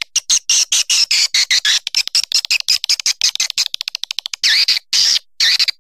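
Recorded swiftlet calls: rapid trains of short, high chirps at about ten a second, then longer twittering calls near the end. This is the 'piut' type of swiftlet call track that is played to draw swiftlets into nesting houses.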